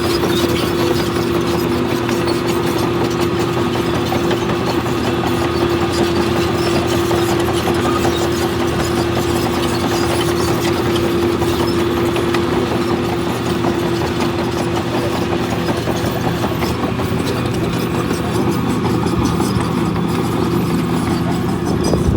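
Heavy earthmoving machine's diesel engine running steadily, with a constant humming tone over it.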